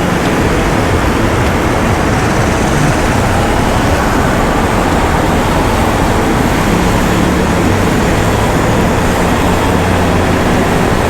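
Steady wind noise over the microphone of a moving electric skateboard rider, with a low hum of road traffic underneath.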